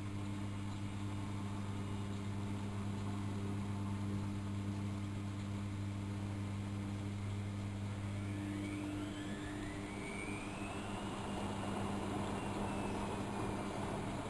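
AEG Electrolux Lavamat L6461 washing machine running a 95°C boil wash: a steady low hum that fades out about nine seconds in, while a motor whine rises in pitch and then levels off.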